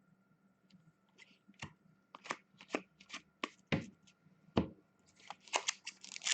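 Trading cards being slid and flicked through by hand: a scatter of soft clicks and snaps from about a second in, getting busier near the end.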